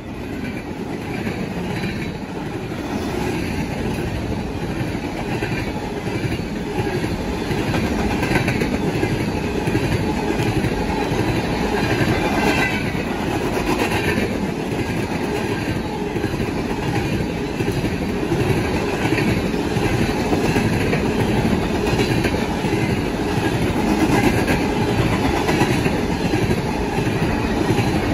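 Coal hopper cars of a freight train rolling past at speed, their wheels clicking in a steady rhythm over the rail joints.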